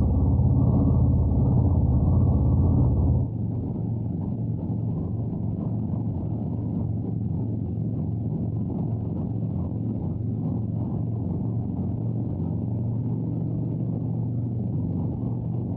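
Harley-Davidson Road Glide V-twin engine running steadily while riding. About three seconds in, the sound drops noticeably quieter and stays steady after that.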